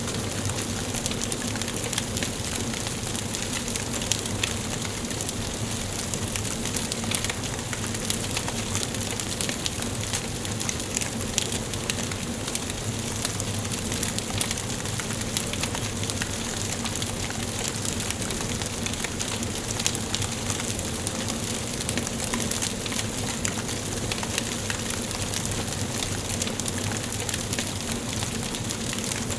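Wood fire burning in a fireplace, with a steady hiss and many small, sharp crackles and pops throughout.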